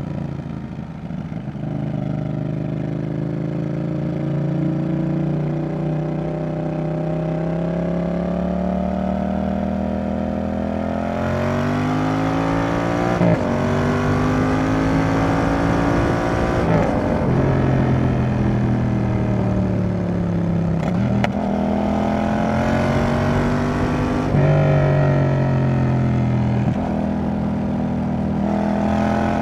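Yamaha XSR700's CP2 parallel-twin engine through a Roadsitalia aftermarket exhaust under way. The note climbs slowly for the first ten seconds or so, then rises and drops about four times as the bike is accelerated hard and the throttle is rolled off or the next gear taken.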